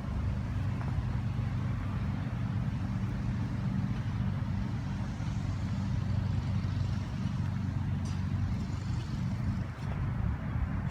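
Steady low rumble of a running vehicle, engine hum with road noise.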